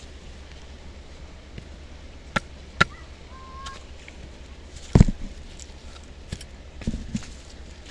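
Firewood being chopped and split: about six sharp, irregular wooden knocks, the loudest a heavy thud about five seconds in, with a quick double knock near the end.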